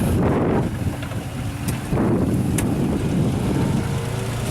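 Propane-fuelled Nissan TB12 inline six-cylinder engine of a Komatsu FG35ST-6 forklift idling steadily, with two faint clicks about two seconds in.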